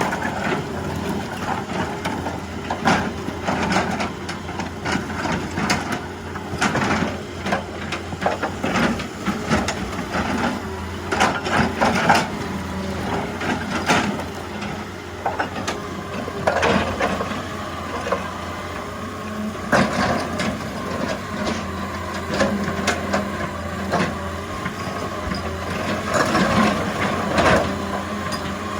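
Excavator's diesel engine running steadily while the machine works rock, with irregular knocks, clanks and crunching of stone throughout.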